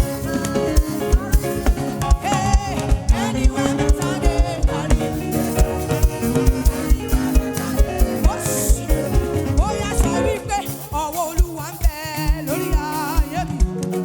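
Live African gospel praise band playing an upbeat groove with a steady kick-drum pulse, bass and keyboards, with wavering melodic lead lines over it.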